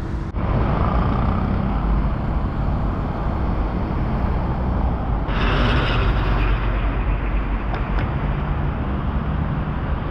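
City street traffic: a steady low rumble of passing cars, buses and trucks, with a hiss that swells about five seconds in and fades a second later.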